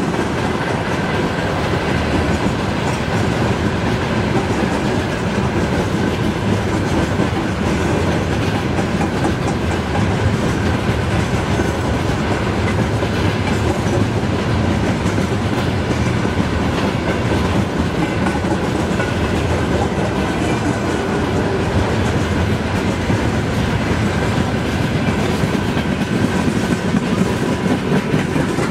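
Train wagons passing close by, their wheels clattering steadily over the rail joints.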